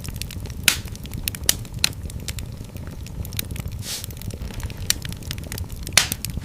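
Wood fire burning in a fireplace: a steady low rumble of flames with irregular crackles and a few louder pops, and a brief hiss about four seconds in.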